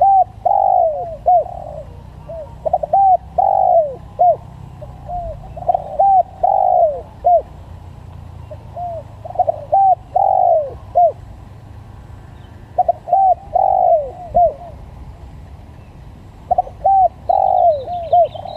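Spotted dove (tekukur) cooing: a phrase of several short coos around one longer, louder coo, repeated six times about every three and a half seconds.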